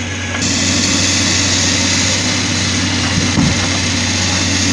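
Kamaz logging truck's diesel engine running steadily with a low hum, a loud rushing noise joining it about half a second in.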